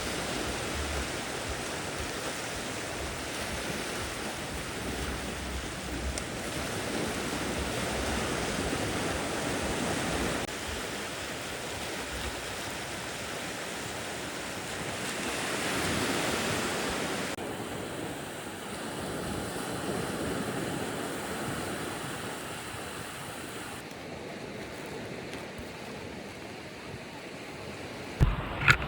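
Sea waves washing onto a beach, with wind buffeting the microphone; the surf swells and fades, and its sound changes character a few times. Two sharp knocks near the end are the loudest sounds.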